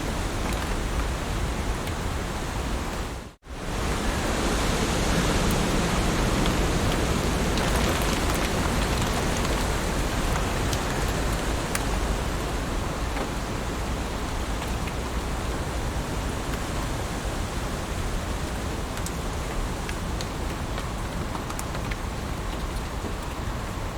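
Heavy rain falling steadily as a dense, even hiss. It cuts out abruptly for a fraction of a second about three seconds in, then resumes slightly louder for a few seconds.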